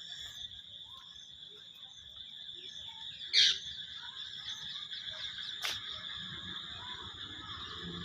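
Steady high-pitched chorus of frogs and insects calling, with one brief, much louder call about three and a half seconds in and a sharp click near six seconds.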